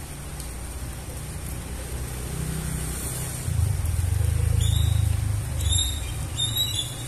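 Steady rain falling on concrete, with the low rumble of a motor vehicle's engine nearby growing louder about halfway through. A few short high squeaks come near the end.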